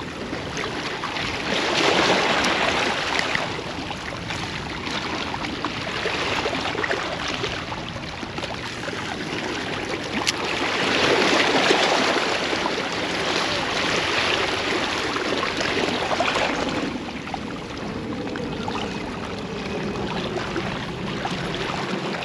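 Ocean surf washing onto the beach: a steady rush of water that swells louder twice, about two seconds in and again near the middle, as waves break.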